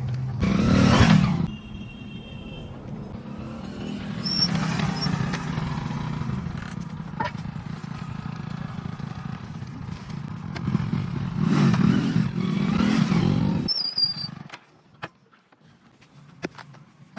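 Motor-vehicle engines running, with three louder surges like vehicles passing close by and a few short high chirps. Near the end the sound cuts to a quiet stretch with scattered clicks.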